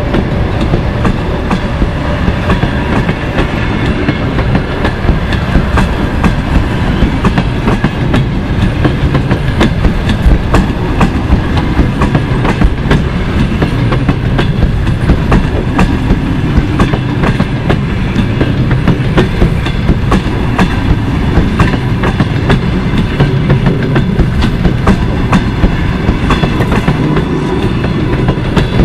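Passenger coaches rolling past close by: a steady rumble of wheels on rail, with irregular clicks as the wheels cross rail joints.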